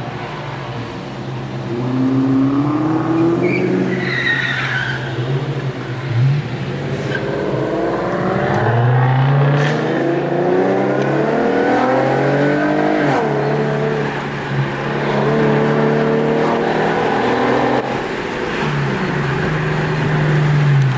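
Several car engines revving and accelerating, their pitch rising and falling over and over as they pull away and shift.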